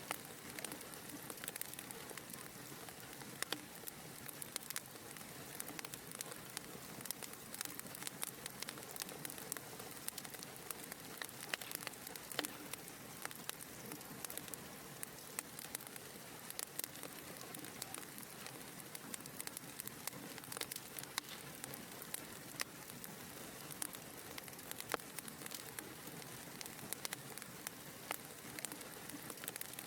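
Wood fire burning in a fireplace: a soft steady hiss with frequent small, sharp crackles and pops at irregular intervals.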